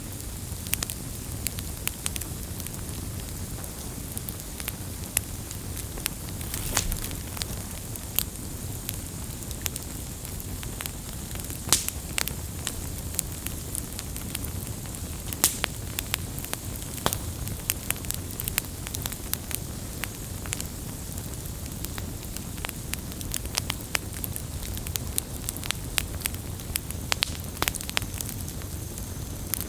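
Wood campfire burning: a steady low rumble and hiss of the flames with irregular crackles and sharp pops from the burning wood.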